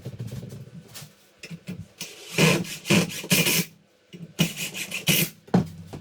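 Wooden boards scraping and knocking as a door jamb extension is worked into a tight frame: irregular knocks, with two longer rasping scrapes, each about a second long, near the middle.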